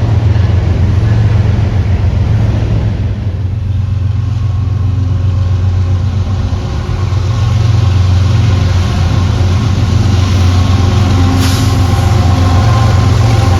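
Train passing close by, its diesel locomotive engine giving a loud, steady low rumble.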